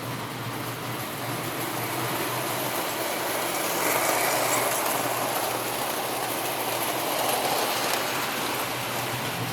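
Prewar Lionel standard gauge 390E locomotive and cars running on three-rail track: a steady rolling rumble from the motor and wheels that swells about four seconds in and again near the end, as the train passes closer.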